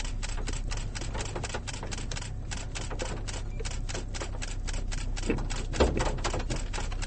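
Rapid, even clicking, about six clicks a second, with a brief low thump near the end.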